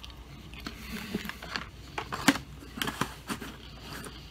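Irregular crunching clicks of candy-glazed roasted pecans being chewed, with the plastic jar of pecans being handled near the end.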